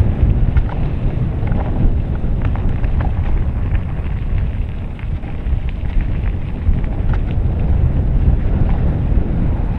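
Wind buffeting the microphone: a loud, uneven low rumble with a few faint clicks.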